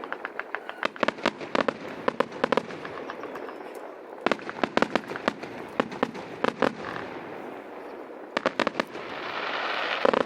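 Fireworks going off: many sharp bangs and pops in quick clusters. About nine seconds in, a dense hissing crackle sets in.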